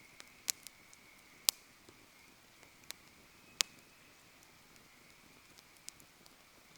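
Wood campfire crackling quietly, with scattered sharp pops and snaps, three of them much louder than the rest.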